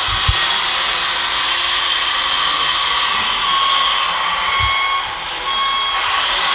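Small electric motors of radio-controlled model trucks and construction machines whining steadily, with a few low knocks near the start and about two-thirds through.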